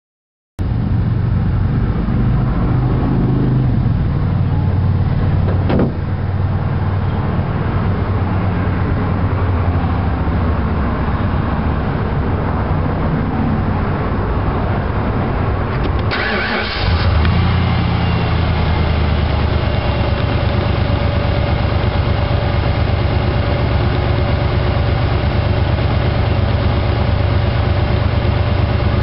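Ford 5.8-litre V8 engine idling with an intermittent miss that makes it run rough. The miss comes from the harmonic balancer, whose outer ring has spun on its rubber isolator and moves out of position.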